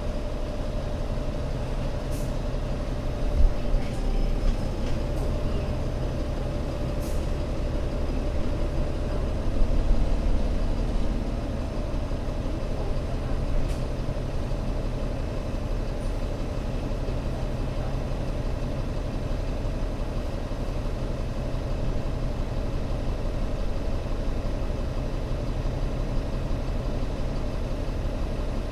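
Engine of an Alexander Dennis Enviro500 MMC Euro 6 double-decker bus running steadily with a low hum, with a few short clicks in the first half.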